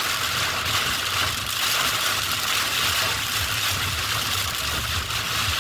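Car driving in the rain, heard from inside the cabin: a steady low engine and road rumble under an even hiss of rain and wet road.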